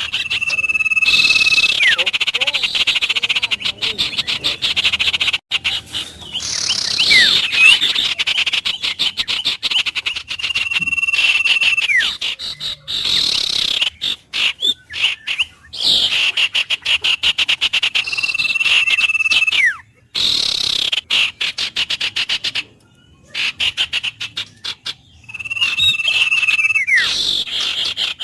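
Frogs calling in repeated loud bouts of rapid pulsing, each lasting a few seconds with short gaps between. Before each bout comes a steady whistled bird note and a falling whistle.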